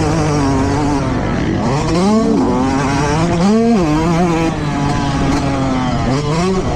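Motocross bike engine revving up and down with the throttle as it is ridden, its pitch climbing sharply twice, about two and three and a half seconds in, between steadier stretches.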